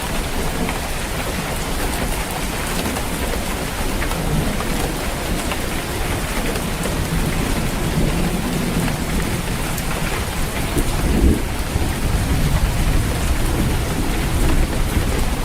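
Steady heavy rain drumming on a roof, with low rolling thunder rumbling underneath and swelling about two thirds of the way through.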